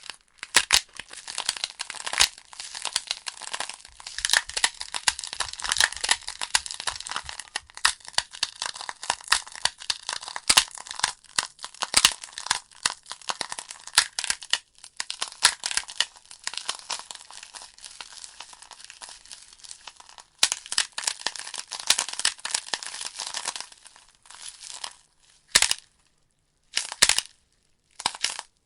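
Wood fire crackling in a fireplace: dense, irregular pops and snaps from the burning logs over a steady hiss of flame. Near the end the sound cuts out to silence several times between short bursts of crackling.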